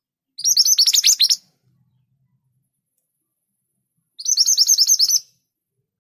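Scarlet minivet singing: two bursts of rapid, high, downward-sweeping notes, each about a second long, a few seconds apart.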